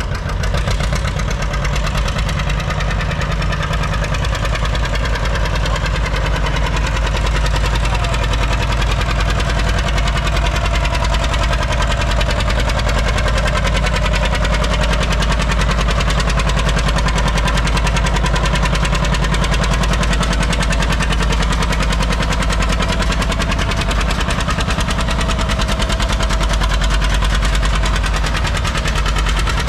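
John Deere 730's two-cylinder engine running steadily under load with a dense, even pulsing exhaust beat, as the tractor pulls down the track.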